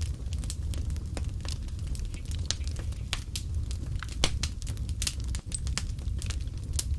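Wood fire crackling and popping in a fireplace: irregular sharp snaps over a steady low rumble of the flames, with one louder pop about four seconds in.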